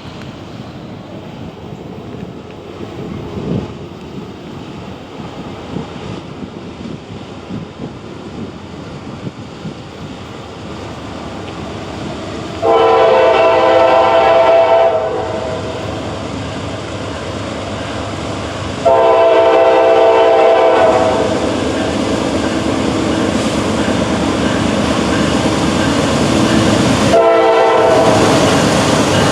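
Diesel-hauled freight train approaching with a low rumble that grows louder, then its locomotive air horn sounds two long blasts about 13 and 19 seconds in and starts a third near the end.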